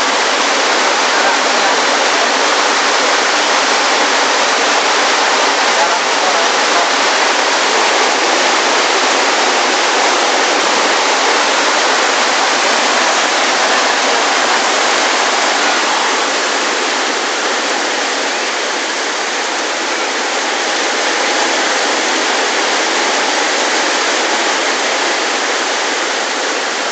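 Rain pouring onto a lake's surface: a steady, dense hiss of countless drops striking the water, easing slightly about two-thirds of the way through.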